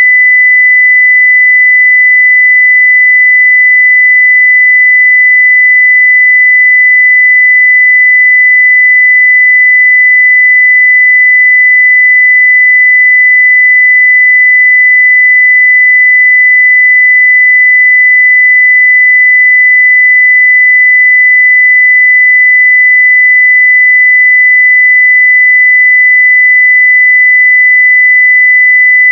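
Continuous 2 kHz sine-wave test tone at full-scale level (0 dBFS), one steady pure pitch without any change.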